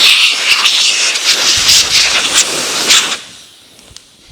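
A loud rushing hiss, like a blast of air, for about three seconds, then it dies away.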